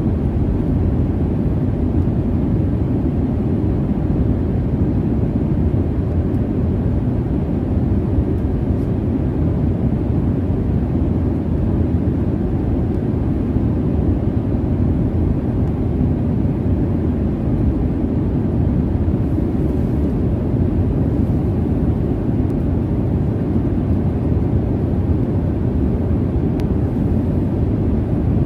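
Airliner cabin noise in flight: a steady, deep rush of jet engine and airflow noise, even throughout.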